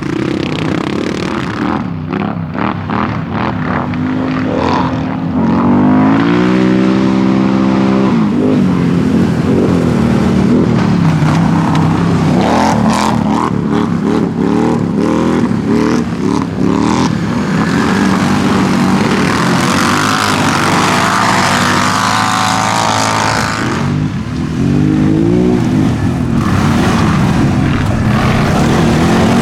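4x4 ATV engines revving hard as they race, their pitch rising and falling with the throttle. One engine climbs steeply in pitch about six seconds in, and the sound is louder from then on.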